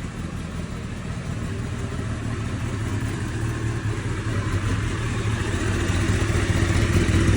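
Kawasaki Ninja ZX-10R's inline-four engine running steadily at idle, its low hum gradually growing louder.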